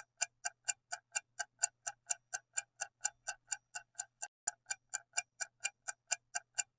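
Clock-ticking sound effect, even sharp ticks at about four a second, counting down the time to answer a quiz question.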